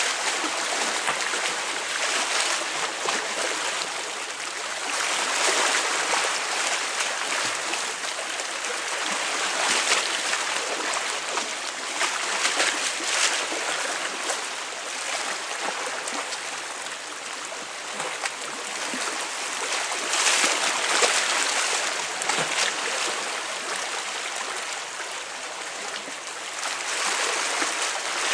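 Sea waves breaking and splashing against tetrapod breakwater blocks, a continuous wash that swells with each wave every few seconds.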